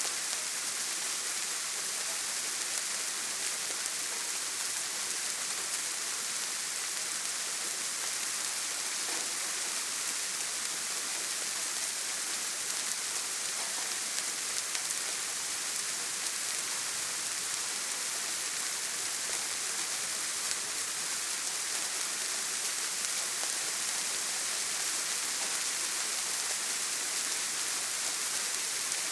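Steady heavy rain: a dense, even hiss with faint scattered drop ticks.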